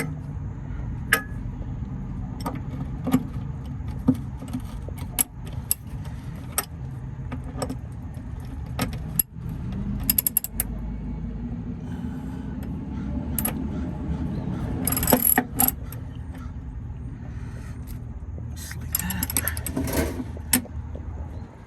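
Hand ratchet clicking in short strokes and bursts as it tightens the drain plug in a DD15 diesel's oil pan, over a steady low rumble.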